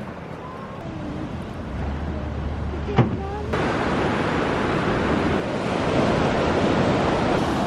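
Ocean surf with wind buffeting the microphone, growing louder and steadier after a sharp click about three seconds in.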